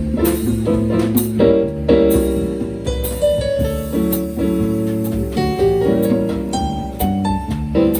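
Live instrumental music led by piano, with sustained chords and melody notes over a low bass line and some sharp high strikes.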